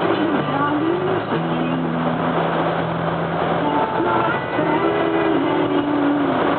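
Steady car road noise with music playing over it: a held low note and a melody that steps up and down.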